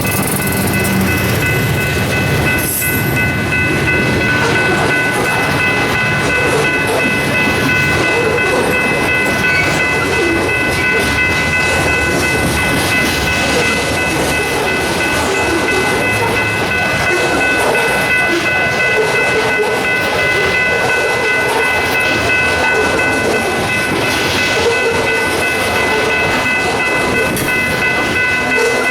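Train passing, a steady, loud rumble and rattle of wheels on the rails, with a continuous high-pitched ringing held throughout.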